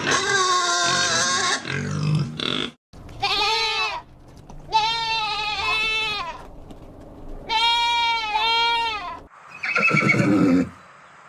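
A goat bleating again and again in long, quavering calls with short gaps between them.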